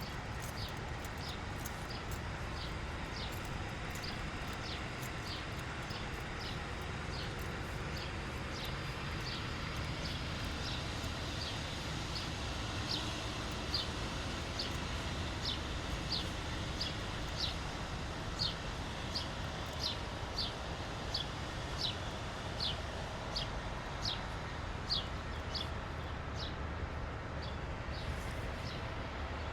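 Footsteps on wet pavement, a crisp click about every 0.6 seconds at walking pace, growing louder in the second half, over a steady low rumble of distant city traffic.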